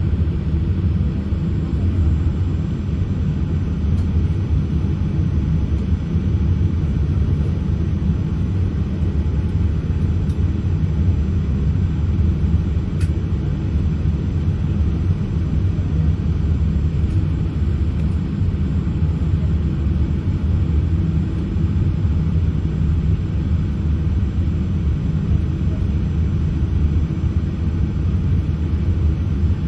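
Steady low rumble inside the cabin of a Boeing 787-8 airliner as it taxis, with its engines at idle thrust.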